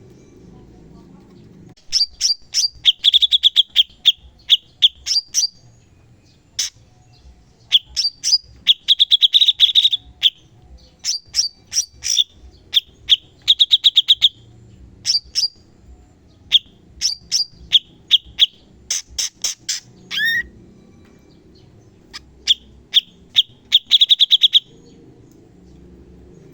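Cucak cungkok singing in bursts of rapid, sharp high notes and fast trills, with brief pauses between phrases and one downward swooping note about two thirds of the way through. The song starts about two seconds in and stops about two seconds before the end.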